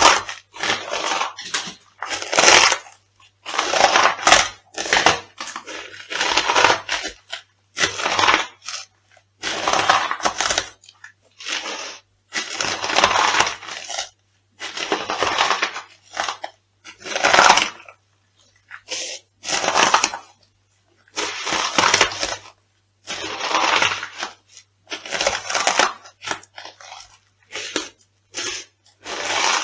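Crisp food being crushed underfoot in a long series of separate crunches, each lasting up to a second or so, with short pauses between.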